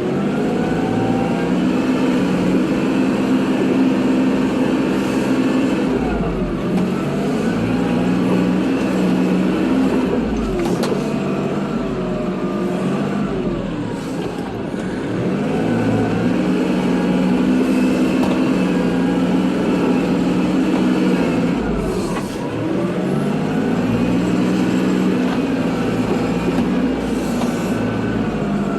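Kubota tractor's diesel engine running under load while plowing snow, its speed dropping and climbing back several times.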